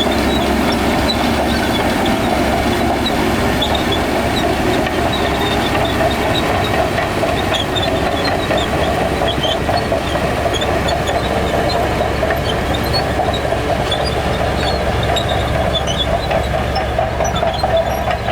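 Shantui crawler bulldozer at work: the diesel engine runs steadily under load, with a constant clatter of steel tracks.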